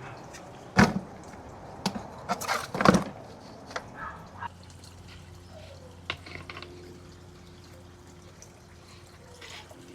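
Knocks and clatter of canister filter parts being handled and fitted together, with a loud knock about a second in, a cluster of knocks around three seconds, then a few light clicks. A low steady hum comes in after about four seconds.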